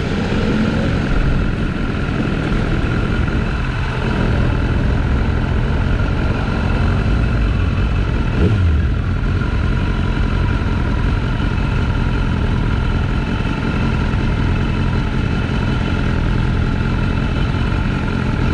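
BMW S1000RR's inline-four engine running steadily, with one short falling sweep about eight seconds in.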